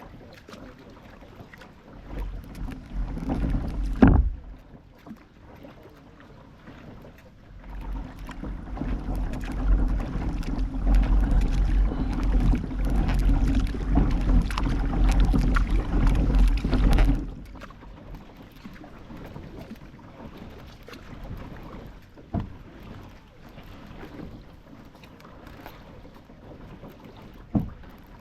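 Noise from a kayak out on the water, picked up by a camera mounted on the boat: low rumbling from the water and wind on the microphone, with a single knock about four seconds in. The rumble grows louder from about eight seconds in and drops back near the end.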